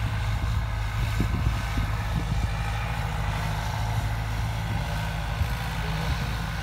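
Farm tractor's diesel engine running steadily at a constant speed, with a few faint low knocks.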